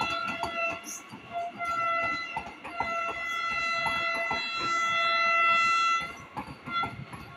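Vande Bharat Express train running: regular clicking of wheels over rail joints under a high, steady tone with several pitches. The tone holds for several seconds and drops away about six seconds in.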